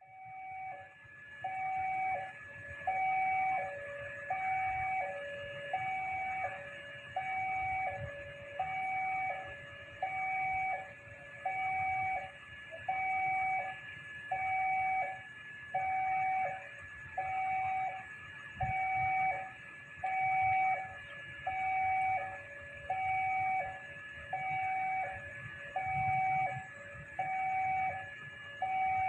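Railway level-crossing warning alarm sounding: an electronic two-tone signal, a higher and a lower tone alternating about once a second, warning that a train is coming and the barriers are closed.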